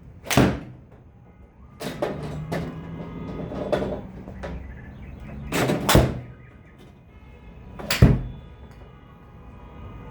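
Golf iron strikes on balls: several sharp cracks of club on ball, the loudest about half a second in, around six seconds and around eight seconds, with lighter hits between, over faint background music.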